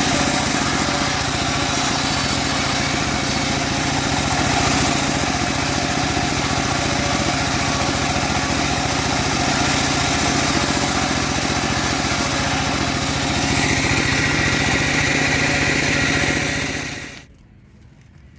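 Homemade motor-driven bandsaw sawmill running steadily, with a brief higher band in the sound in the seconds before the end. Then it stops fairly abruptly, leaving only faint background sound.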